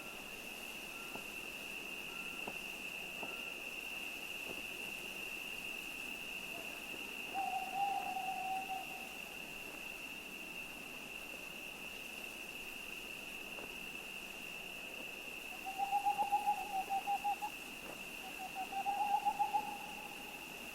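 An owl hooting at night: three quavering, wavering hoots, one about seven seconds in and two close together near the end, over a steady high-pitched drone.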